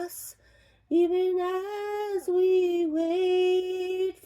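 A woman's mezzo-soprano voice singing a slow psalm melody in long held notes. It pauses briefly just after the start and comes back in about a second in.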